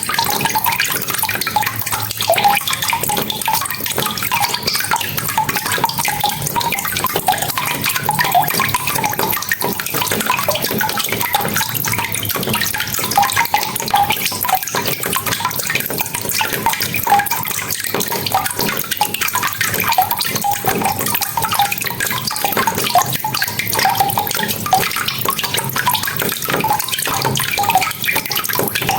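Steady rain falling, with a dense patter of close drips and splashes.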